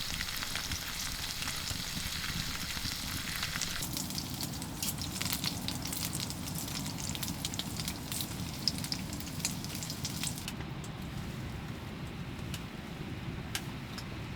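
Food sizzling and spitting in a hot pan, most likely pork belly frying, with a steady crackle of small pops; the higher hiss eases off about ten seconds in.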